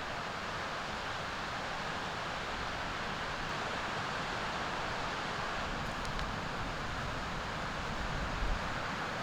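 Steady wind and sea surf, with a brief low buffet of wind on the microphone near the end.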